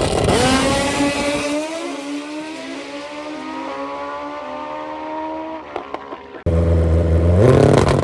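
A drag-racing motorcycle accelerating hard down the strip and fading away, its engine note climbing through several gear changes. Near the end the sound cuts abruptly to another engine running close by, which revs up.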